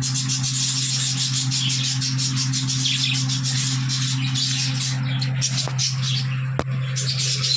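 A flock of budgerigars chattering and chirping continuously, over a steady low hum, with a single sharp click near the end.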